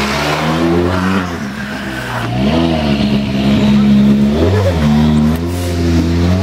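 World Rally Car's turbocharged four-cylinder engine revving, its pitch falling and rising several times as the throttle is blipped.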